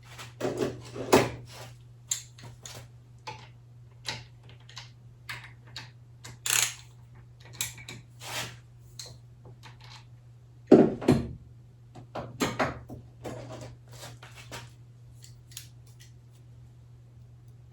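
Irregular clicks, knocks and light clatter of hand tools and metal parts being handled on a workbench, with a steady low hum underneath.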